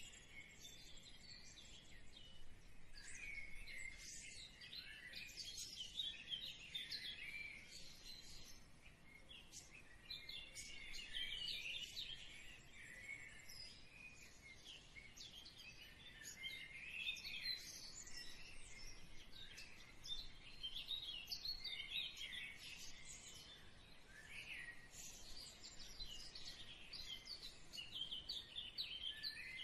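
Small birds chirping, faint: a dense run of quick, high chirps and short trills that goes on without a break.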